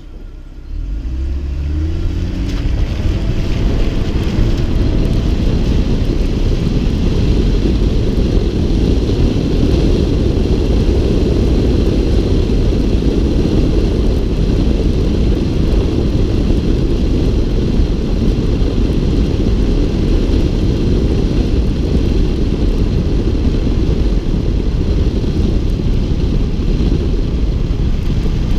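Heavy wind buffeting on the microphone of a GoPro HERO4 on a suction-cup mount outside a moving car, with a steady rumble of wind and road noise. In the first few seconds the engine note rises as the car accelerates.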